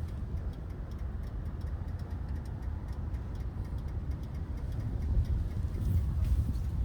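Harley-Davidson Sportster 48's air-cooled 1200 cc V-twin engine idling with a steady low rumble and light ticking.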